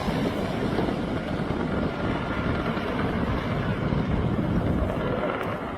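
Airbus helicopter running, a steady even rush of turbine and rotor noise.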